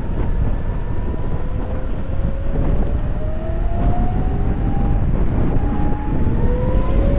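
Wind buffeting the microphone on a moving VMoto Stash electric motorcycle, over which the electric drive's thin whine rises in pitch as the bike speeds up. The whine climbs steadily through the first few seconds, drops back briefly past the middle, and rises again near the end.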